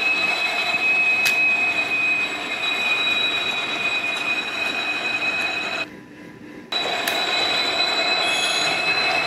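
A railway train running, with a steady high-pitched wheel squeal over a noisy rumble. The sound drops away abruptly for under a second about six seconds in, then comes back.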